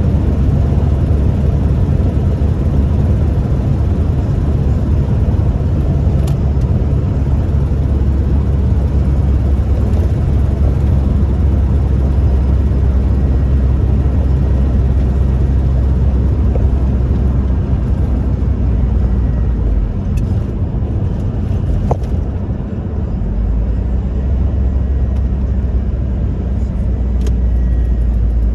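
1998 Toyota Tacoma 4WD pickup being driven: a steady low engine and road rumble that eases off for a few seconds about twenty seconds in, then picks up again. A few light clicks are heard over it.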